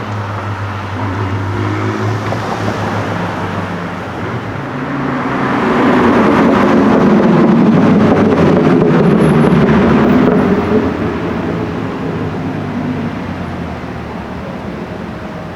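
Car engine in street traffic: a steady engine hum, then a louder engine that builds, passes at its loudest in the middle and fades away.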